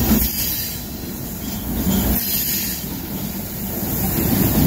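Freight train rolling past close by, a string of dead locomotives hauled with their engines shut down: a steady rumble and rattle of wheels on rail that swells and dips slightly.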